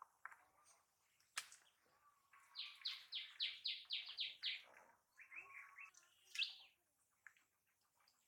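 A bird singing faintly: a quick run of about nine falling notes, then a shorter run a moment later. A single sharp click comes just before the song.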